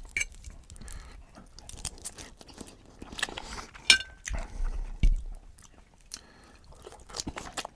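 Close-miked eating sounds from a meal of noodles with fried eggs and sausage: chewing and biting, with irregular wet clicks and crunches, quieter for a second or so near the end.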